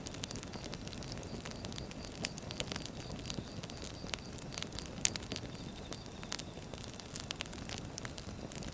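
Firewood burning with a steady low rumble and frequent sharp pops and crackles. A single louder pop comes about five seconds in.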